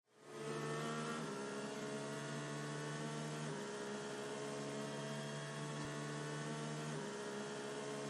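Background music: a sustained synth drone that fades in and holds chords, shifting to new ones a few times.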